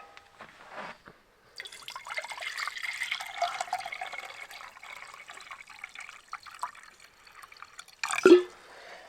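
Water being poured into an electric camping kettle: a steady splashing trickle lasting about six seconds. A brief louder sound follows near the end.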